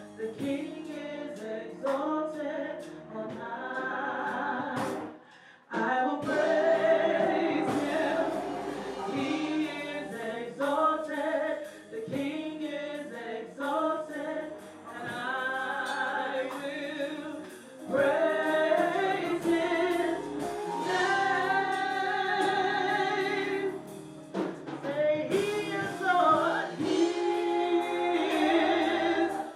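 Gospel choir singing with accompaniment, in sung phrases that break off and resume every few seconds.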